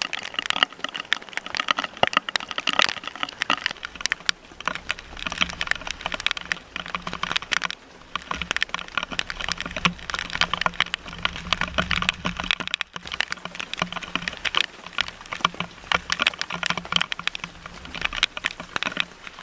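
Heavy rain falling on a sailboat's cockpit, a dense irregular tapping of drops striking close to the microphone.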